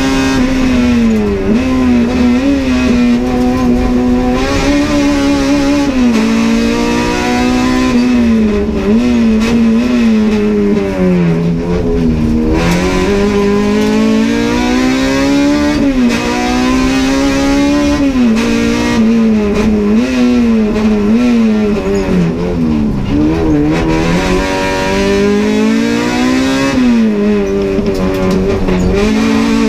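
Honda Civic race car's four-cylinder engine heard from inside the cabin at racing speed, its pitch repeatedly climbing under acceleration and dropping sharply on gear changes and braking.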